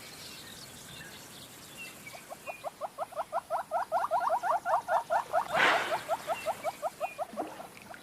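Wild animal calling in a rapid run of short, rising squeaks, about eight a second, that builds over a few seconds and then fades. A brief rustling burst comes in the middle, and faint high chirps sound throughout.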